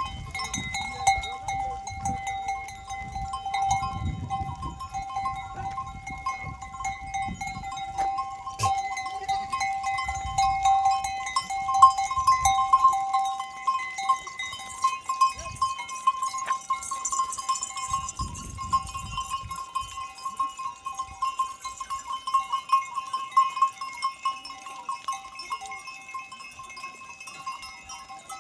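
A goat herd on the move, with their bells ringing steadily and many small clicks and knocks throughout.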